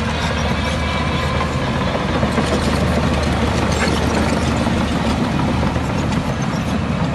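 Heavy diesel engine of earthmoving machinery running steadily, with a dense mechanical rattle over a low engine drone.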